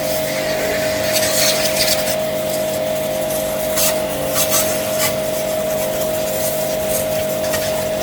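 A motor running at a steady speed with a strong, unchanging whine, with a few short rasping noises over it.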